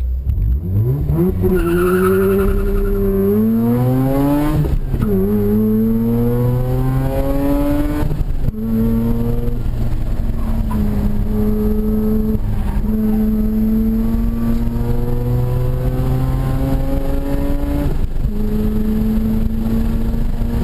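Modified Mazda RX-8's two-rotor rotary engine, with aftermarket intake and exhaust, accelerating hard at full throttle. The pitch climbs through the revs, drops at quick upshifts about four and a half and eight seconds in, then rises slowly through a long pull before falling again near the end.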